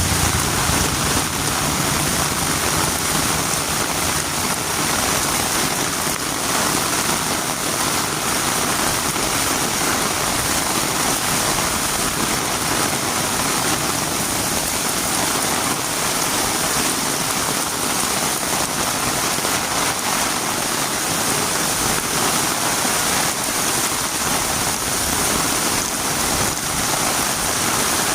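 Heavy rain falling steadily on a road, a dense, even hiss with no letup.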